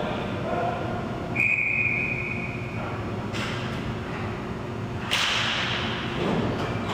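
Sounds from an ice hockey game: a sharp crack about a second and a half in, then a steady whistle tone for about a second, which is likely the referee's whistle. About five seconds in, a loud hissing scrape begins.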